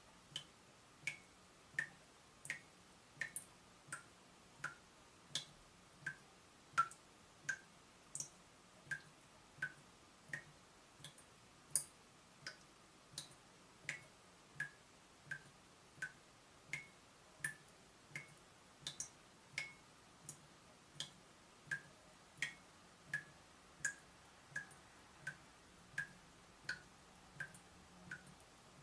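Water dripping from a leaking tap in a steady, regular rhythm of single drops, about one every 0.7 seconds. Each drop is a short, sharp plink.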